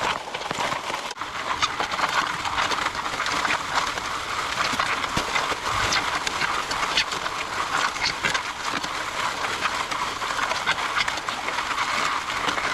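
MudMixer auger concrete mixer running, with a steady dense clatter of gravel and stones churning through it.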